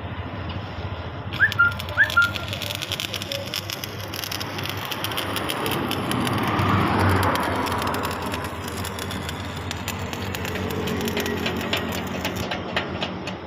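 Outdoor ambience: a bird gives two short, sharp rising whistled calls about a second and a half in, the loudest sounds here. Under them run a steady low hum and a rush of noise that swells and fades in the middle, with scattered light clicks.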